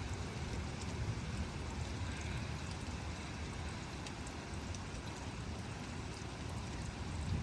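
Steady rain falling during a thunderstorm, an even hiss with faint scattered drop ticks over a low continuous rumble.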